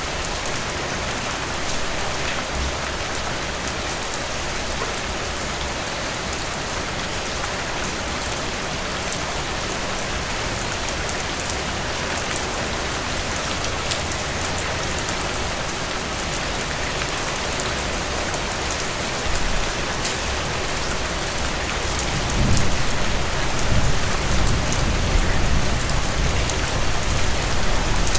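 Steady rainfall, an even hiss with many small drop ticks on a surface. About 22 seconds in, a low rumble comes up under the rain and stays, making it louder.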